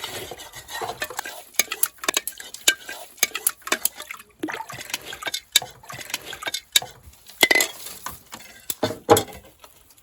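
Kitchenware clattering: irregular sharp clinks and knocks of utensils against pots and dishes, louder knocks near the end.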